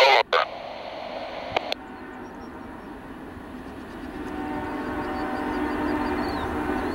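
A short burst of scanner-radio speech at the very start, the tail of a trackside defect detector's report, then a freight train approaching out of sight, its steady multi-toned sound growing louder from about halfway through.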